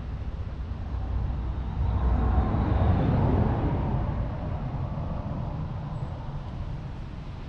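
New Holland T6.155 tractor's 4.5-litre four-cylinder diesel engine running with a steady low rumble. It grows louder about two seconds in, then eases off toward the end.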